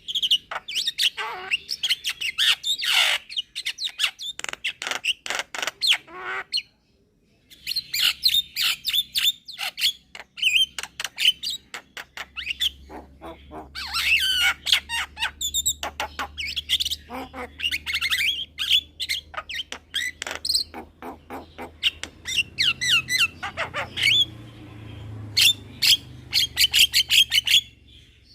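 Young Javan myna singing in a long, fast run of harsh chirps, squawks and whistles, broken by a brief pause about seven seconds in. A faint low hum sits under the second half.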